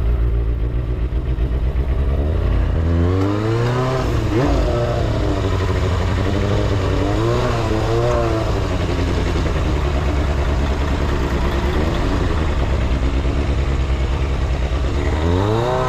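Vintage Kawasaki motorcycle engine running at a steady low idle, blipped up in revs several times: a climb about three seconds in, a quick blip soon after, a wavering rise and fall around the middle, and revs climbing again near the end.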